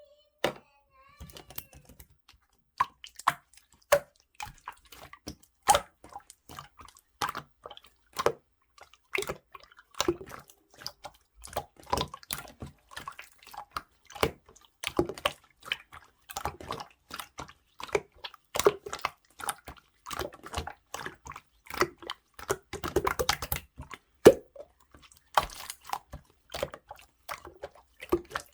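Clear, watery slime being squeezed, poked and folded by hand, giving quick irregular wet clicks, pops and plops.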